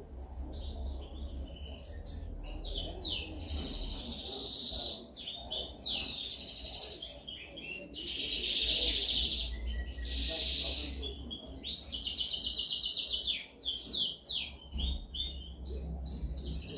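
Canary singing a continuous song of fast trills and rolls, phrase after phrase, with brief gaps between phrases.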